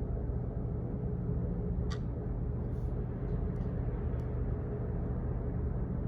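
Office background noise: a steady deep hum, with a few faint, irregularly spaced clicks about two to four seconds in.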